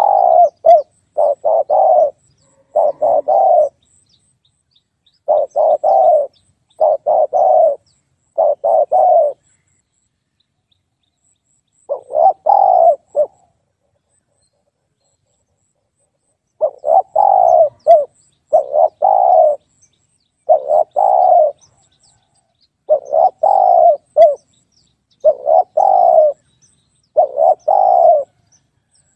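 Spotted dove cooing: repeated phrases of short, deep coo notes with brief silent gaps between them, and a longer pause about halfway through.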